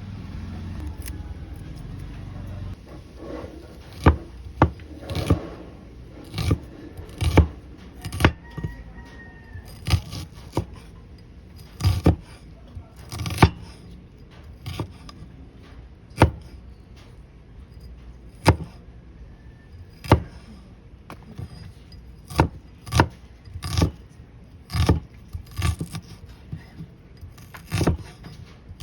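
Food preparation in a kitchen: sharp knocks and clicks on a hard surface at an irregular pace, roughly one every second, with a low rumble in the first couple of seconds.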